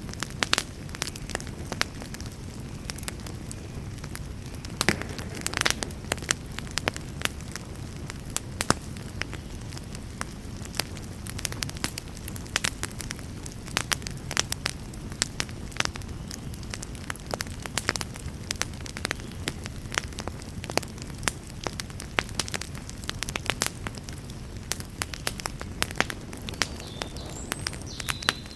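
Wood campfire crackling: a dense run of sharp snaps and pops, several a second and a few of them louder, over a steady low rush of the burning fire.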